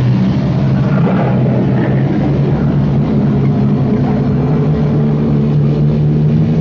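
A car engine running loud and steady, a continuous droning hum with no separate crash impacts standing out.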